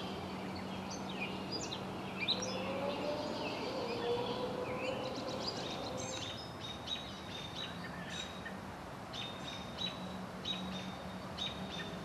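Wild songbirds chirping and calling over steady outdoor background noise, with a run of short, evenly repeated chirps, a few a second, in the second half.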